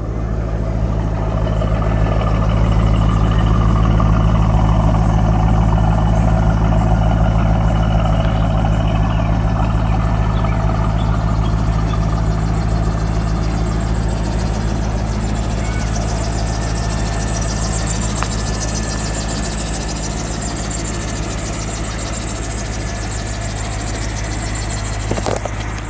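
Stock C5 Corvette's LS1 V8 idling steadily through its factory exhaust, very quiet.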